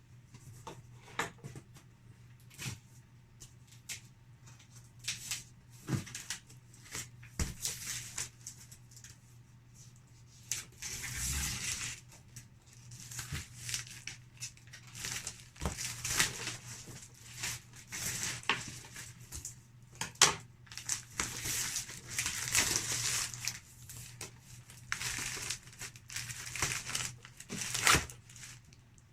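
Packaging being handled and pulled off a new toaster oven during unboxing: irregular crinkling, tearing and rustling with occasional sharp knocks, in uneven bursts.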